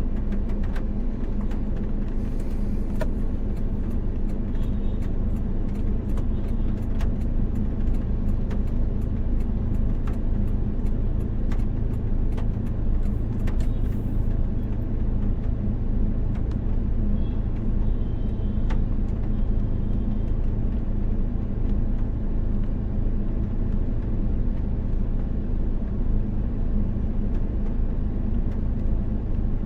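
Car driving, with a steady low rumble of engine and road noise. Scattered light ticks come through the first half and thin out after that.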